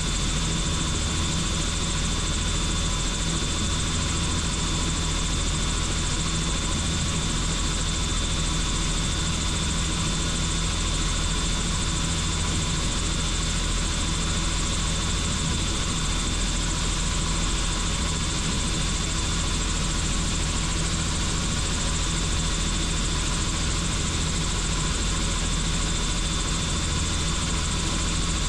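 Helicopter in flight: steady, unbroken rotor and engine noise with a thin, steady high whine above it.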